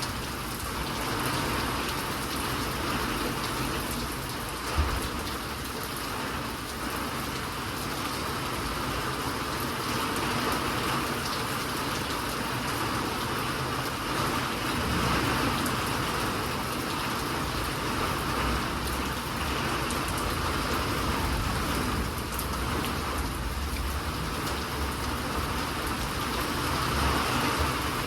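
Steady rain falling, an even hiss of drops that holds through, with one brief low thump about five seconds in.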